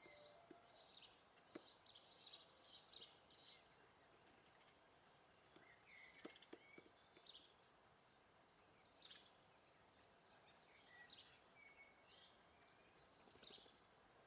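Small garden birds chirping and calling: a quick run of short high chirps over the first few seconds, then single calls every second or two, with a few short whistled notes and some faint taps.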